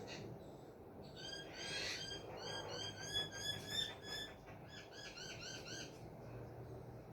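A bird calling in a quick run of short, arched chirps, several a second, starting about a second in and stopping near the end.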